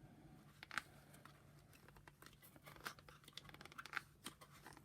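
Faint, scattered clicks and scratches of small plastic parts of a Shark vacuum power nozzle being handled and twisted into place, with a few sharper ticks about a second in and near the end.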